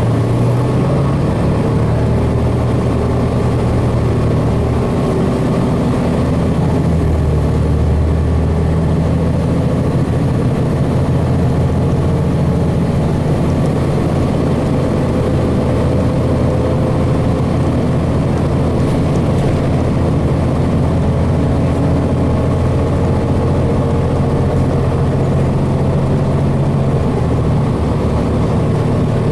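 Cummins ISC six-cylinder diesel engine of a 2002 Blue Bird transit bus, heard from inside the cabin as a steady low drone while the bus runs. Its pitch shifts about a quarter of the way in and again near the end as the engine speed changes.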